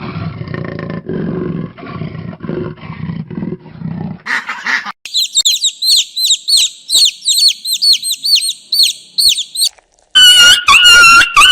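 A run of animal calls. First a deep, rough growling roar for about four seconds, then a short call. Next a small bird gives rapid, repeated high chirps for about five seconds, and near the end a loud, high-pitched animal call starts with pulsing strokes.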